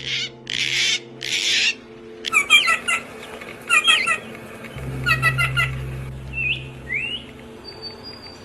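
Birds calling: three harsh squawks in the first two seconds, then three quick bursts of rapid chirps, then two short rising whistles and a thin high whistle near the end.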